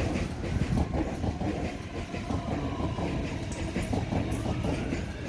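Electric train moving along the platform: wheels rumbling and clicking over the rail joints, with a thin electric motor whine that falls in pitch and then rises again near the end.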